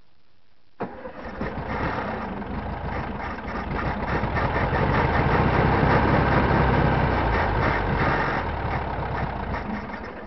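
1970 VW Beetle's air-cooled flat-four engine being started after sitting for ten years. It cuts in suddenly about a second in, grows louder over the next few seconds, then fades and stops near the end.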